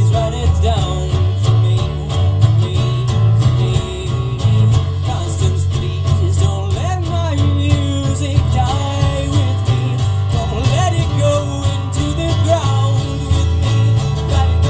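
Live band playing an instrumental passage of a song: guitars over a steady, repeating bass beat, with a wavering lead melody.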